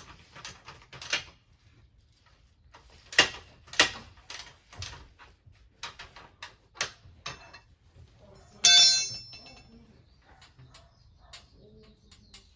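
Scattered clicks and knocks of small hard objects being handled, with one loud metallic clink near nine seconds that rings briefly.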